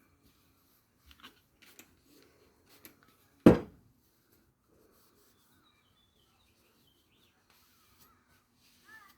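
Objects being handled on a workbench: a few light clicks and taps, and one sharp loud knock about three and a half seconds in, as of something set down hard.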